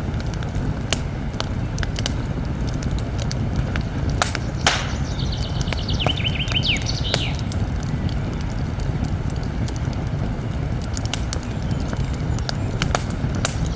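Wood campfire crackling, with scattered sharp pops over a low steady rumble and one louder pop a little over four seconds in. A bird sings a rapid trilling phrase in the background from about five to seven seconds in.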